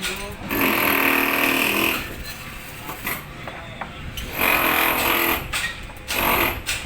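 A power tool working on galvanized iron pipe, running in three short bursts: the longest, about a second and a half, at the start, then two shorter ones in the second half.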